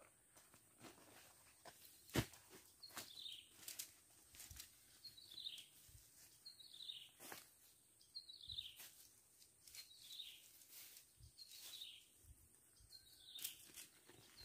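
Quiet outdoor ambience with a bird repeating a short, falling call about every one and a half seconds, over scattered clicks and rustles from camping gear being handled. A sharp click about two seconds in is the loudest sound.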